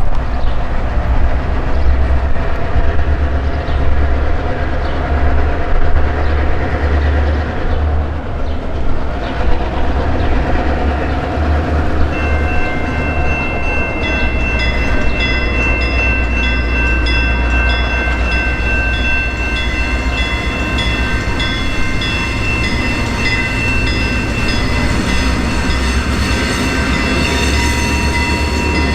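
A train passing close by with a heavy, steady rumble. About twelve seconds in, several steady high-pitched tones join it and hold, typical of wheels squealing on the rail.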